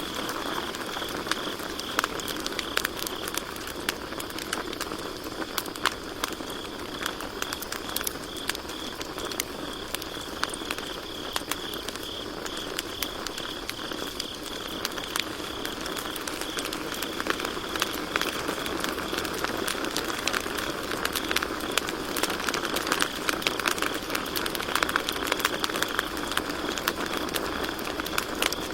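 Campfire burning with constant crackling, many small sharp pops. Behind it crickets keep up a steady high trill.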